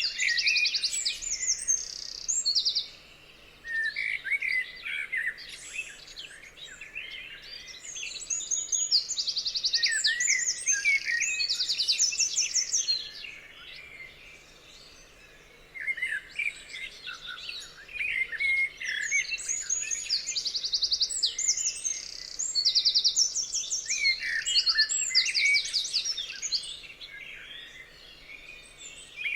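Chorus of several songbirds singing and calling over each other: fast, high trills and shorter chirps, easing off briefly twice.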